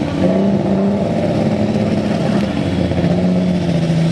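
Super stock pulling tractor's engine running loud at high, mostly steady revs, with small shifts in pitch.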